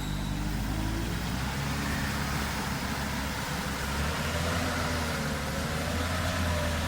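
Off-road 4x4's engine running under load, its note shifting up and down as it works through mud.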